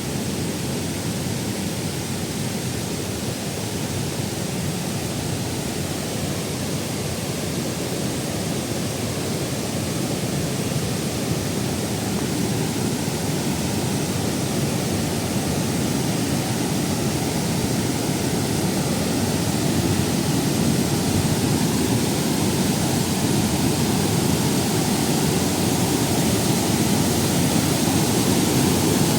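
Multi-tiered waterfall: water falling and splashing in a continuous rush, growing slightly louder toward the end.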